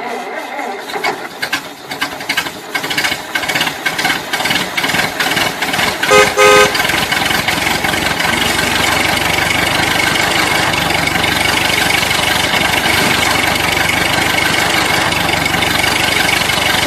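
A vehicle horn beeps twice in quick succession about six seconds in, over a steady running engine-like noise that clatters at first and evens out after a few seconds.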